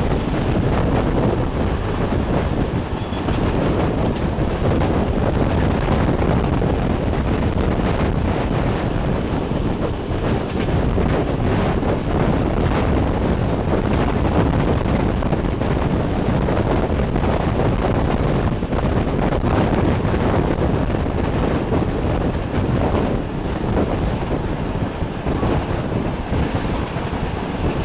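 Wind buffeting the microphone at the open window of a moving passenger train, over the steady rumble of the train running along the rails.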